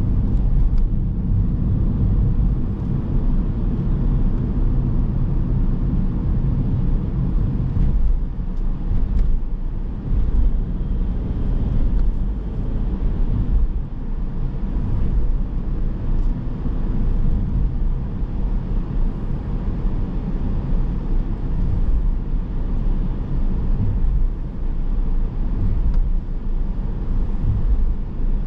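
Car driving along city streets: steady low rumble of engine and tyres on the road.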